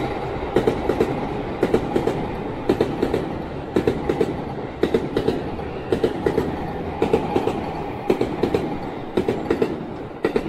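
A JR E231 series electric commuter train runs past, with a steady rumble. Its wheels clack over the track in quick clusters of two to four about once a second, one cluster for each passing pair of bogies.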